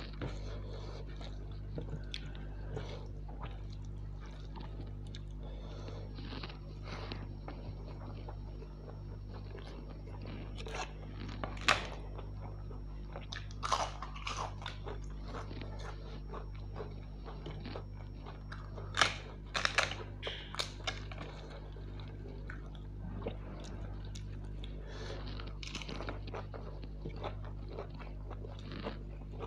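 Close-miked eating sounds of a person chewing spiced rice pulao with soya chunks, eaten by hand. Wet mouth and finger noises are punctuated by a few louder crunches about 12, 14 and 20 seconds in, over a steady low hum.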